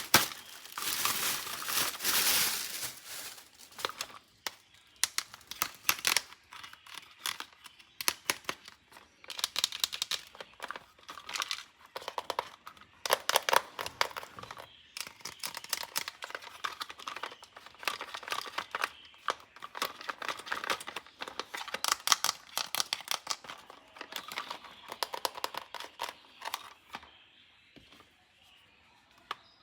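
Plastic toy packaging being crinkled and torn open by hand, with irregular crackling bursts and small clicks that fade near the end.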